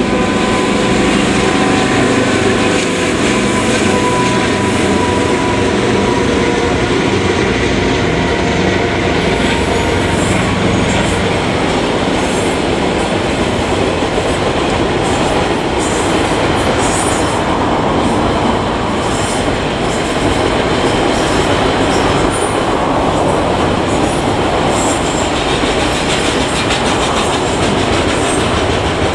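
A KiwiRail freight train passes at close range. For the first several seconds the diesel locomotive's engine is heard as a steady drone. After that the long rake of container wagons rolls by with continuous wheel-on-rail noise and repeated rail clicks.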